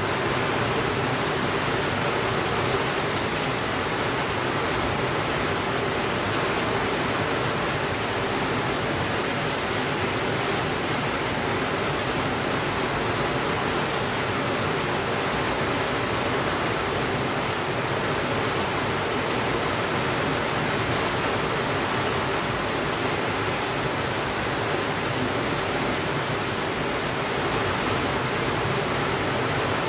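Steady rainfall making an even, unchanging hiss, with a few faint crackles from a fireplace.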